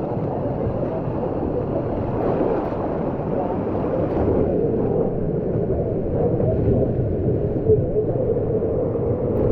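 Steady, low rushing of a river running high after a typhoon.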